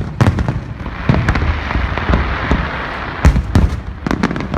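Fireworks display: aerial shells bursting in a rapid, irregular series of sharp bangs, with a stretch of hissing crackle in the middle and a cluster of bangs near the end.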